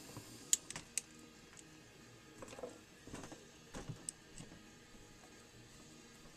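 Screwdriver and small metal clipper parts being handled while the blade screws of a Wahl clipper are started: two sharp clicks near the start, then softer scraping and fiddling.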